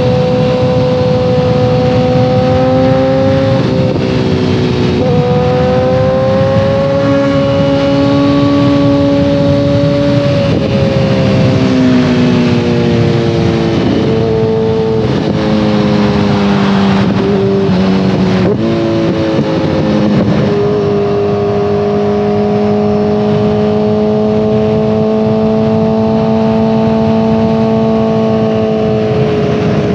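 2014 Kawasaki ZX-14R's inline-four running through a full Brocks Alien Head 2 exhaust while being ridden. The engine note rises and falls with the throttle and jumps at several gear changes over the first twenty seconds, then holds a long, slowly rising pull before dropping near the end.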